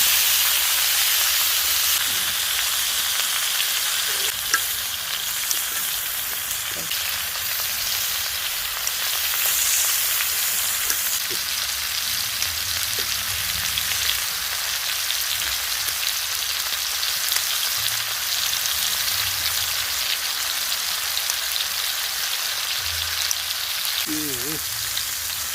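Pork front-leg meat sizzling as it grills on a cast-iron cauldron lid, a steady hiss with a few small pops.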